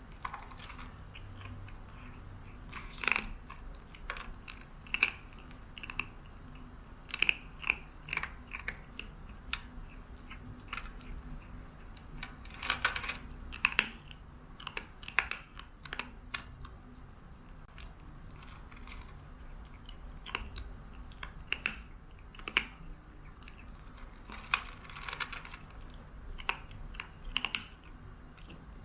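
Chewing with irregular crisp crunches, one or two a second, some in quick clusters, with short pauses between.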